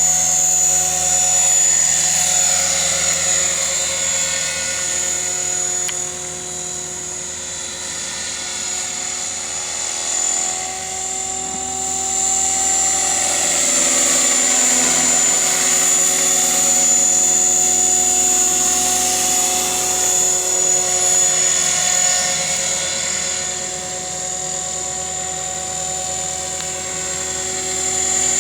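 Align T-Rex 600 radio-controlled helicopter flying: a steady high-pitched whine from the rotor head and drive, with the pitch and loudness of its rotor sound drifting up and down as it moves about.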